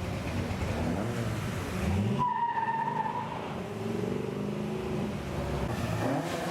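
Car engines revving as cars pull away, their pitch rising and falling, with a brief high tyre squeal a little over two seconds in.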